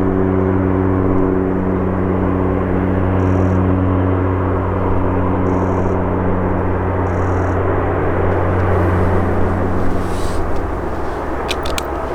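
Airbus A330 jet engines running at low power, a steady low hum of several tones over a rushing noise. The hum thins out about ten seconds in.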